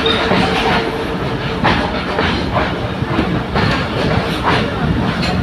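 Moving train: steady rumble of the running train, with the wheels clattering over rail joints in uneven clicks about every half second.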